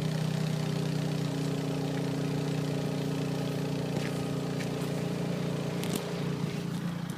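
Stock exhaust of a 2004 Ford SVT Focus, its 2.0-litre four-cylinder engine running at steady revs.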